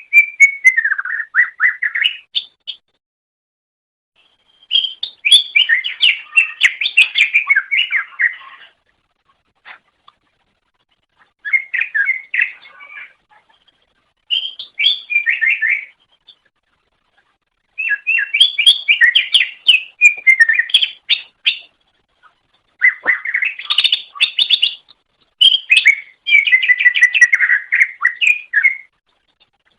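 Green leafbird (cucak ijo) singing: rapid, warbling, chattering phrases in about seven bursts of two to four seconds each, with short pauses between.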